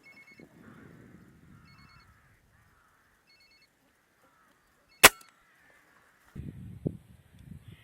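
A single sharp shot from a Hatsan Striker Edge break-barrel air rifle about five seconds in, after a few faint, short high chirps. Low rumbling noise with a small click begins near the end.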